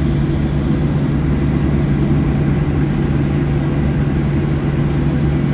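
Steady cabin noise of a Boeing 737-700 on the ground with its CFM56 engines at idle: an even rumble with a constant low hum.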